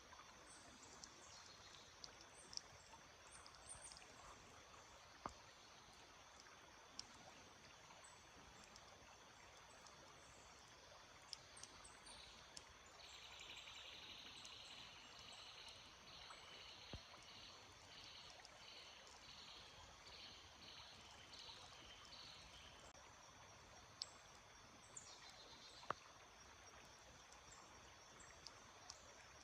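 Faint, steady running water of a small stream. From about the middle for some ten seconds a bird gives a high, rapid, buzzy series of repeated notes, with a few short high chirps scattered before and after.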